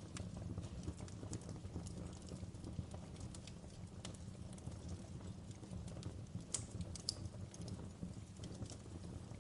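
Wood fire crackling: irregular small snaps and pops over a low steady rumble from the burning logs, with two louder snaps about two-thirds of the way through.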